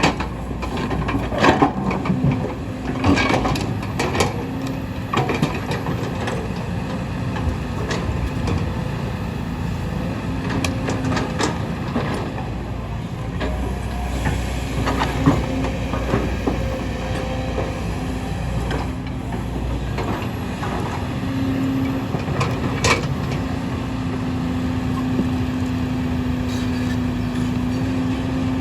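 Kobelco hydraulic excavators working a hillside cut: steady diesel engine drone with scattered knocks and clanks of bucket on rock and soil, thickest in the first dozen seconds. A steady low hum holds through the last few seconds.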